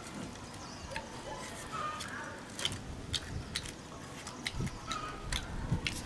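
Scattered small wet clicks and smacks of someone chewing and gnawing meat from a barbecued rib, coming more often in the second half.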